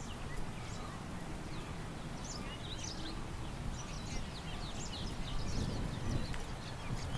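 Small birds chirping and twittering in quick, scattered high calls that grow busier about a third of the way in, over a steady low rumble of wind.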